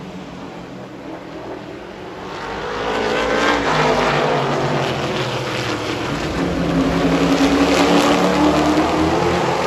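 Super truck race engines at racing speed, growing louder about two and a half seconds in as trucks come past, their pitch rising and falling as they go by.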